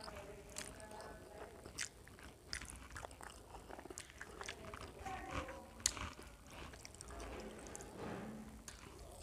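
A person chewing a mouthful of rice and fried egg eaten by hand: faint mouth sounds with scattered small clicks, the sharpest about six seconds in.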